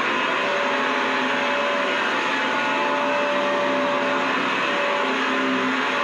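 Vacuum cleaner running steadily: an even rushing hiss with a few faint steady tones within it.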